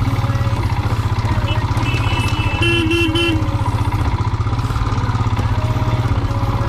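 Single-cylinder Royal Enfield motorcycle engine idling with a steady thumping beat. About three seconds in, a vehicle horn gives a few quick toots.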